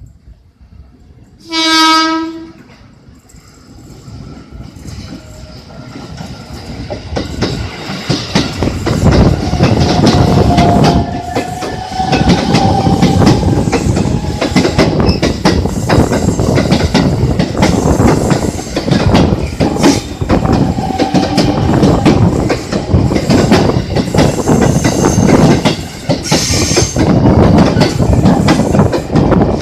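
Passenger train sounds one short horn blast about two seconds in. It then approaches, grows loud, and passes close by with its wheels clattering steadily over the rail joints.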